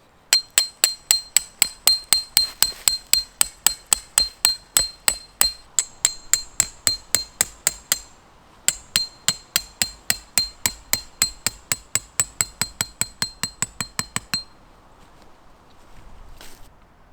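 A hammer driving a tent peg into the ground: two long runs of rapid, even strikes, about four or five a second, each with a high metallic ring, broken by a short pause about eight seconds in.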